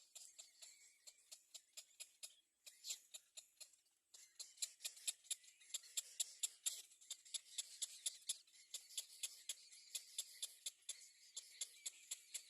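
Rapid run of short, high-pitched chirps from olive-backed sunbirds at the nest, about five a second, with a brief pause about four seconds in.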